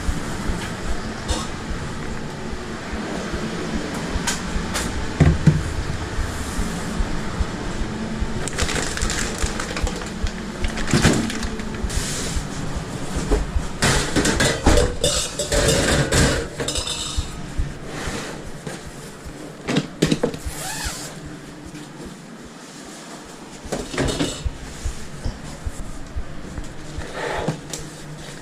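Food-truck kitchen clatter: metal utensils, pans and dishes knocking and clinking irregularly while burgers and fries are prepared. A steady low hum runs underneath and stops about two-thirds of the way through.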